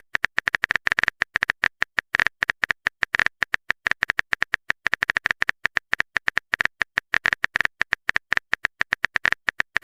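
Typing sound effect: a rapid, even string of short keyboard taps, several a second, with no pause.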